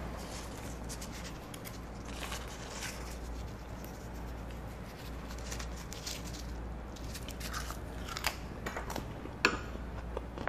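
A person eating close to the microphone: chewing with scattered small crunches and clicks, a few louder ones near the end, over a steady low hum.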